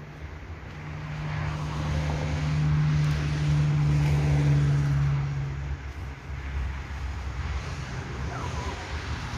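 A motor vehicle passing, its engine noise growing louder for a few seconds and then fading, over a steady low hum.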